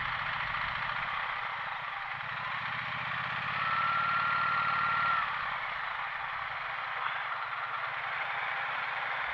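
A motorcycle running on the road, with wind rushing over the microphone. The engine gets louder for a couple of seconds around the middle, with a thin whine over it.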